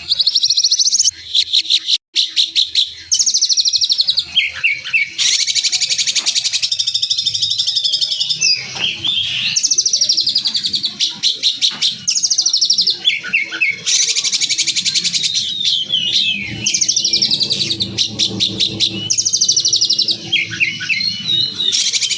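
Songbird song made of harsh, very fast trills, each about a second long and many falling in pitch, packed close together with short chirps between. These are the rough, rapid 'tembakan' bursts used as masteran to train contest birds.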